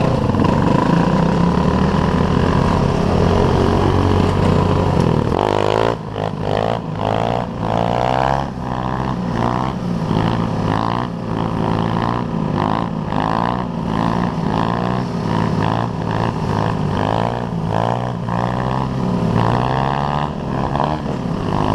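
Pit bike engine riding off-road: a steady drone for the first five seconds or so, then the revs rise and fall over and over as the throttle is worked.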